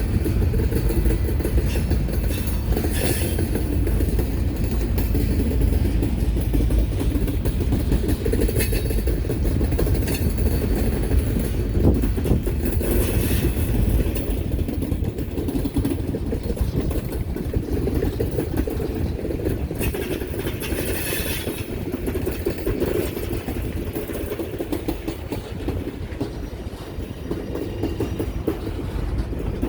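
A train rolling past, a steady rumble of steel wheels on the rails, with a few brief higher-pitched swells of noise along the way.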